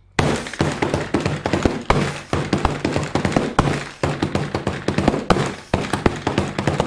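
A rapid, irregular series of sharp taps and clicks over a low steady hum.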